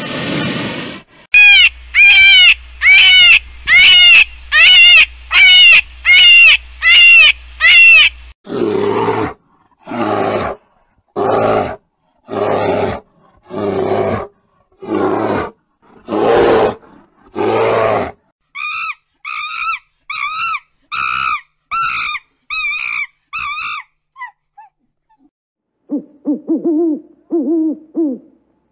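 A run of different animal calls, one kind after another. It opens with a brief hissing rattle from a rattlesnake, followed by nine loud, high calls about a second apart. Next come about ten low calls from a brown bear, then a quicker run of higher calls, and near the end a Eurasian eagle-owl hooting.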